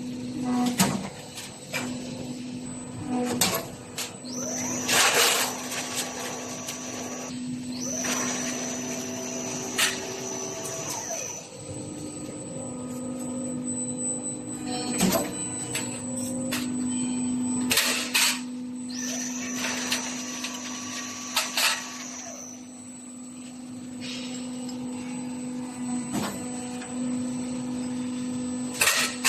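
Metal profile-forming machine for Z-profile fence parts running: a steady motor hum, with stretches of a high whine a few seconds long and sharp metallic clanks every few seconds as the machine cycles.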